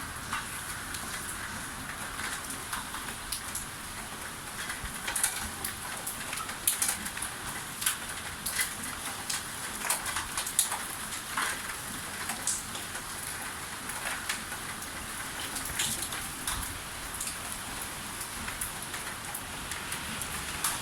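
Heavy typhoon rain falling steadily, with irregular sharp taps of drops striking a hard surface.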